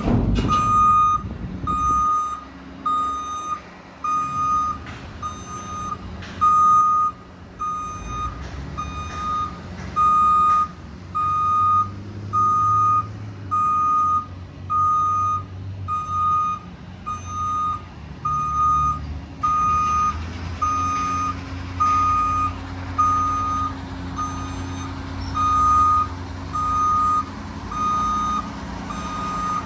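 Garbage truck's backup alarm beeping steadily about once a second while the truck is in reverse, over its engine running low underneath. A single sharp knock right at the start.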